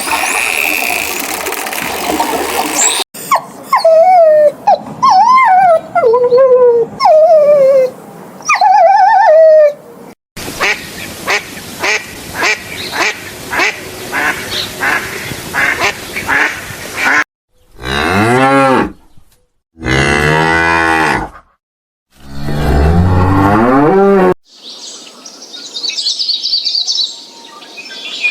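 A string of different animal calls in turn. First come wavering high calls, then a fast run of short calls, then three long, low moo-like calls that each rise and fall, and near the end some high chirps.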